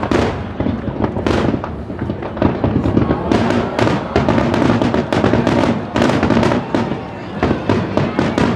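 A close barrage of aerial fireworks: shells launching and bursting in quick succession, several sharp bangs a second, heavy in the low end.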